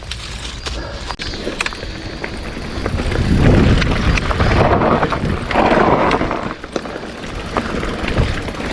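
Mountain bike being ridden uphill: rolling tyre and drivetrain noise with scattered clicks and knocks, and wind on the microphone, growing louder for a few seconds in the middle.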